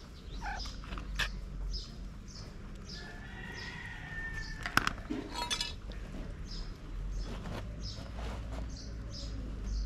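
Small bird chirping over and over in short high notes, about twice a second, with one longer drawn-out call a few seconds in. A sharp click about halfway through is the loudest sound.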